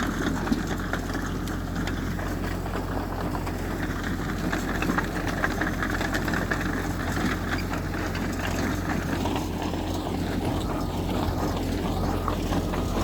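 Heavy diesel engine of earthmoving machinery running steadily: an even low drone with a few small knocks and rattles.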